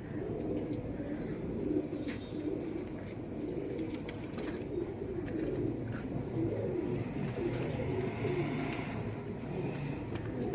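Several domestic Dubwalay-breed pigeons cooing over one another without a break, a low steady warbling, with a few faint clicks among it.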